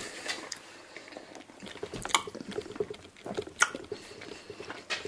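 A person chewing a mouthful of currywurst and chips, with a few sharp clicks of knife and fork against the plate.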